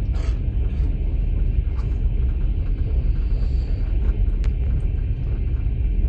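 Steady low rumble of a moving passenger train, heard inside a platskart sleeper carriage, with a few faint clicks and rattles.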